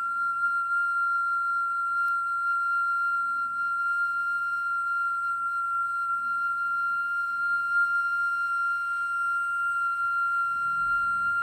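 Japanese iwabue (natural stone flute) holding one long, steady high whistling note. A low sound comes in near the end.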